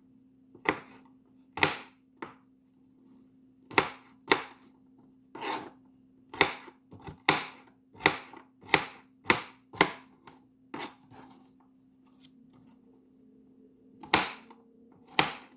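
Knife chopping vegetables into big chunks: a run of sharp, irregular knocks, with a pause of a few seconds before the last few strokes. A faint steady hum sits underneath.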